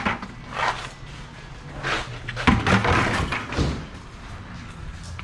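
A series of clunks and knocks, several in a few seconds, over a low steady hum.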